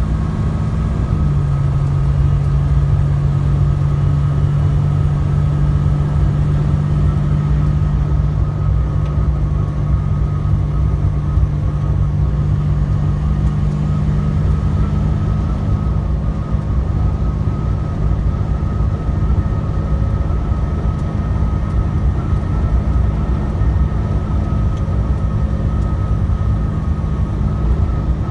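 Truck engine and road noise heard from inside the cab while driving: a steady low drone whose hum drops a little in pitch about a second in, then holds.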